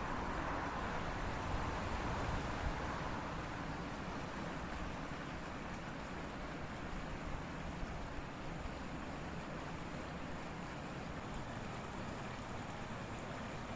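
Steady rushing of whitewater from a waterfall and rapids, an even wash of water noise without breaks.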